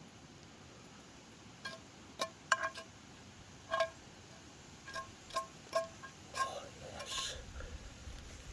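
A metal utensil clinking against a metal cooking pan while stirring fried rice, about a dozen irregular strikes with the pan ringing briefly at the same pitches each time. Near the end there is a short scraping sound.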